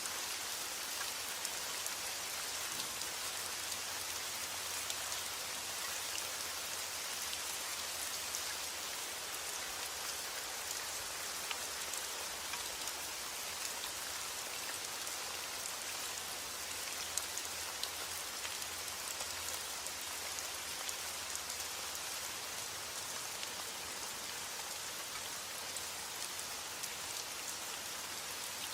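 Steady heavy rain falling on a roof, with scattered sharper drop hits standing out from the even hiss.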